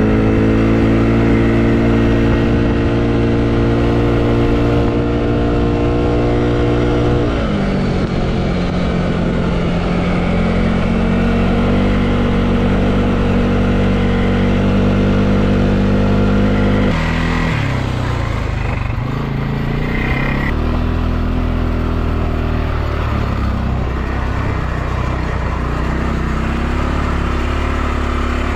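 Quad bike engine running steadily under way. Its pitch drops about seven seconds in, holds, then drops again and wavers from about seventeen seconds in as the bike slows.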